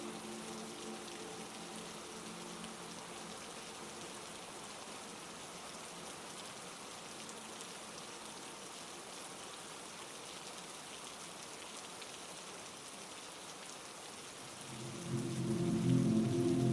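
Steady heavy rain, an even hiss. A low drone of held tones fades out over the first few seconds and swells back in, louder, about fifteen seconds in.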